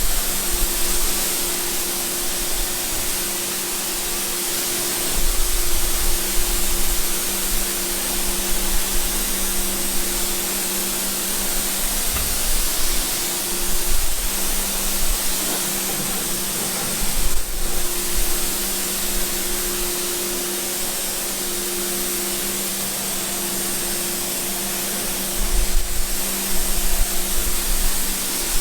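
A motor-driven cleaning machine running steadily: a constant hiss over a steady motor hum, with a few low thumps now and then.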